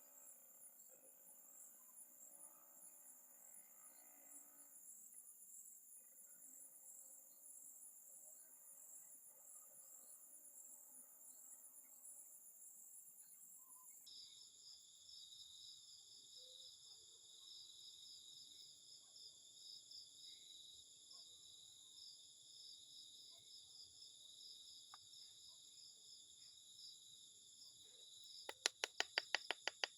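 Insects trilling steadily in fast high-pitched pulses, the chorus shifting lower in pitch about halfway through. Near the end comes a sudden quick run of about ten loud clicks lasting about a second.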